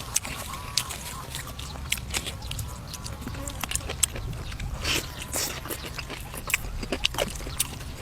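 Close-up eating sounds: irregular wet clicks and smacks of chewing braised duck meat.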